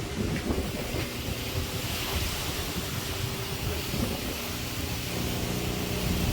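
Vehicle driving through floodwater: a steady rush of water spray from the tyres over a low engine hum.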